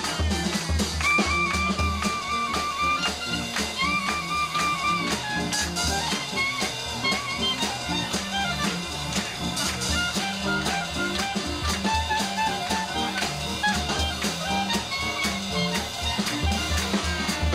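Small jazz band playing live in a swing rhythm: a wind instrument holding repeated high notes over a moving bass line, with drum kit and cymbals keeping time.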